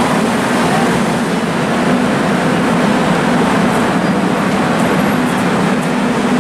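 Korail electric commuter train pulling out and running past the platform: a steady rumble of wheels and motors with a low hum underneath.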